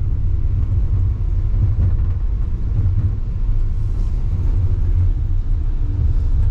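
Steady low rumble of a Wuppertal Schwebebahn suspension railway car running along its overhead rail, heard from inside the cabin.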